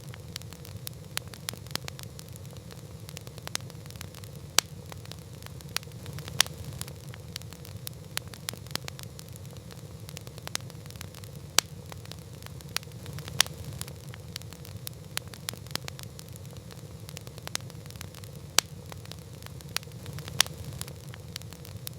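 Wood campfire crackling: irregular sharp pops and snaps, several a second and some much louder than others, over a steady low rumble.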